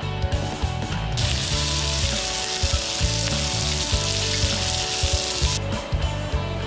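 Background music with a steady beat, and a steady high sizzling hiss that comes in about a second in and stops suddenly about a second before the end.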